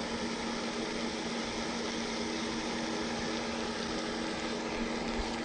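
Steady mechanical hum with a constant low tone and a few fainter tones above it, unchanging throughout.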